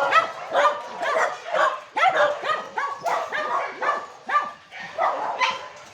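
A group of dogs barking and yipping over each other, several barks a second at different pitches, growing quieter near the end.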